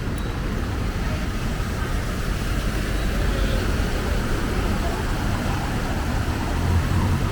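Busy city street: steady traffic rumble with a low drone and faint indistinct voices.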